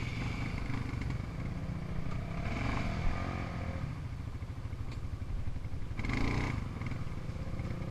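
Small off-road engine (quad or dirt bike) running at low throttle, a steady low rumble with two brief louder surges, a few seconds in and again about six seconds in.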